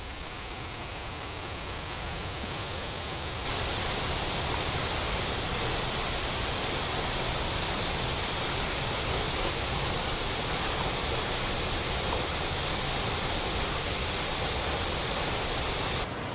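Waterfall rushing: a steady, dense roar of falling water, growing louder about three seconds in.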